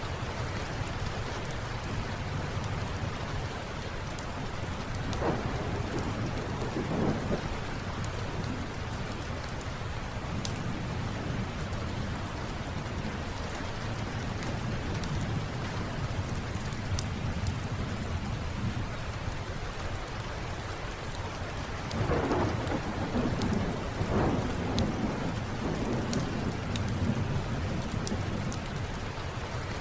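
Steady rain with two rolls of thunder, one about five seconds in and a longer one past twenty seconds, and scattered sharp crackles.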